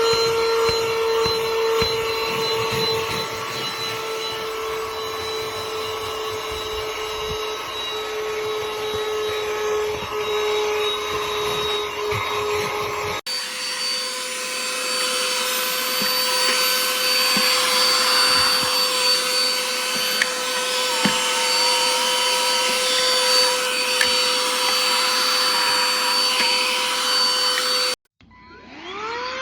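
BISSELL AeroSlim cordless handheld vacuum running with a steady motor whine and suction hiss; the pitch steps up slightly about halfway through. Near the end it cuts off suddenly, and then the motor spins up again with a rising whine.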